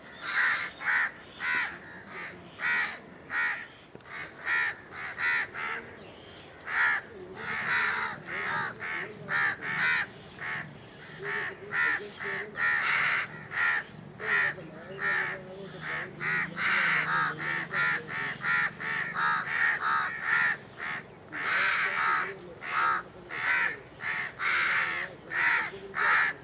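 A flock of birds calling over and over in short, harsh calls, about one or two a second and often overlapping, with no let-up.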